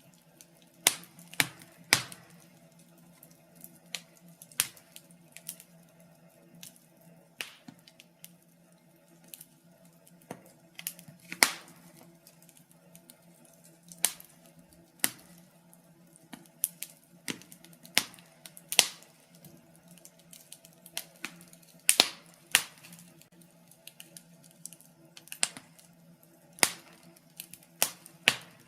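Wood fire in a fireplace crackling and popping: irregular sharp snaps at uneven intervals over a faint steady hum.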